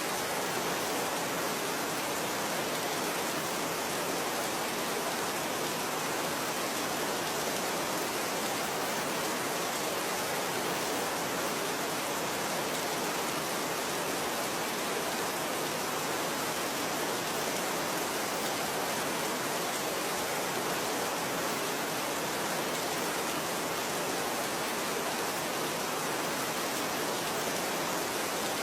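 Rain falling in a steady, even hiss, with no single drops or gusts standing out.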